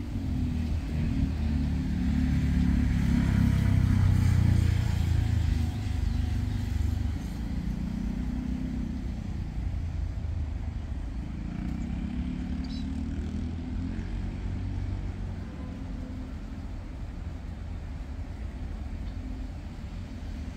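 Diesel-hauled train passing, a low engine rumble that is loudest about two to six seconds in and then settles lower.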